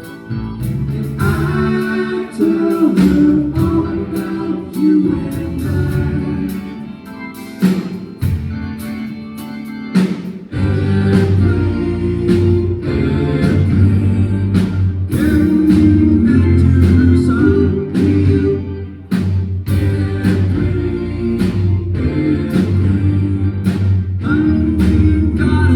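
A live rock band playing with drums, guitar and bass, and sung vocals over them. The low end and the drums fill out about ten seconds in.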